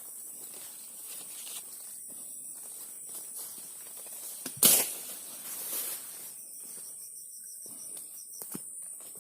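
Rural outdoor ambience: a steady high-pitched insect drone with scattered faint rustling steps, and one sharp, loud knock about halfway through.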